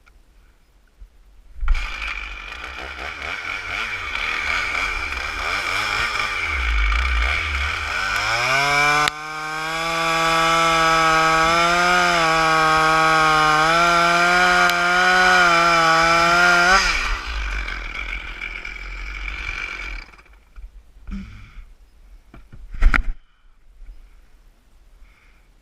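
Stihl MS 460 Magnum two-stroke chainsaw starting to run at lower speed, then revving to full throttle and held there for about eight seconds with a wavering pitch as it cuts a stump, before dropping back off. A single sharp knock follows near the end.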